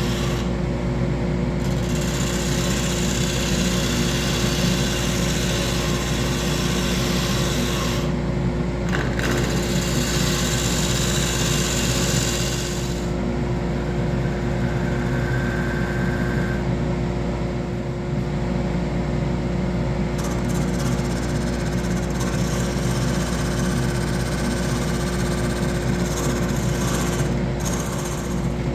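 A woodworking power tool running steadily with a constant hum, and a hiss of wood being cut or abraded that comes and goes in stretches several seconds long.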